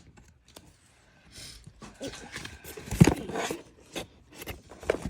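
Handling noises: rustling and scattered clicks, with one sharp knock about three seconds in.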